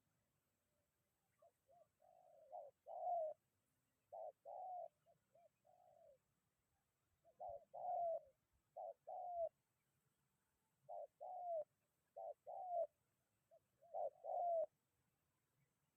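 Spotted dove (tekukur) cooing: about five phrases of short, low notes, each ending in a longer rolling coo, with short pauses between them.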